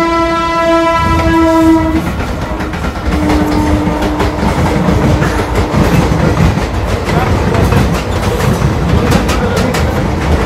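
Train horn sounding, ending about two seconds in, then a fainter, lower steady tone for a few seconds, over the loud rumble of two trains running side by side. The clatter of wheels over rail joints grows sharper near the end.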